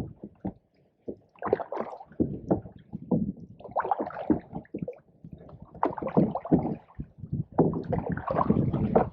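Canoe paddle strokes in the water, a splash and gurgle repeating about every one and a half to two seconds.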